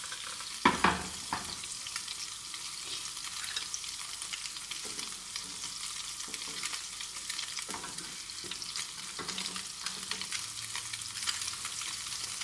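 Egg-dipped bread slices sizzling steadily in butter in a non-stick frying pan. About a second in there is a loud clatter as the pan is set back on the gas stove's grate. Later come softer scrapes of a metal spatula and fork against the pan as the slices are turned.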